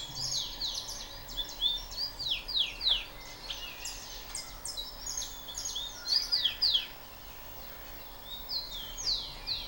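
Several small birds chirping and twittering: quick, high chirps, many sweeping downward, in clusters, with a lull about seven seconds in.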